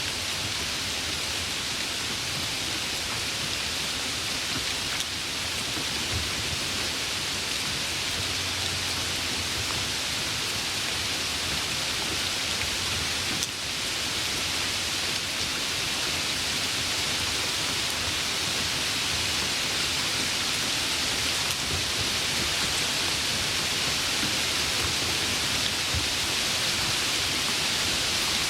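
Heavy rain falling steadily, a dense, even hiss, with a brief dip in level about halfway through.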